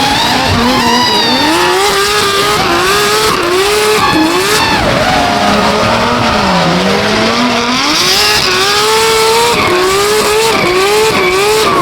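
Nissan Skyline R32 drift car's billet RB28 straight-six revving hard, its pitch rising and falling over and over as it is held near the limiter, with the tyres screeching through a drift. The engine note drops lower about six seconds in, then climbs again.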